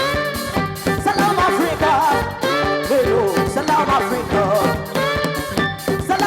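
Live band playing an afro-fusion song, with a wavering melody line over the full band.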